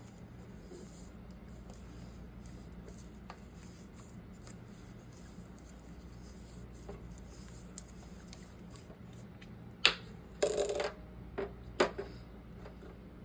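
Small metal parts clinking and clattering as they are handled: a sharp click, a brief clatter and two more clicks near the end, over a steady low hum.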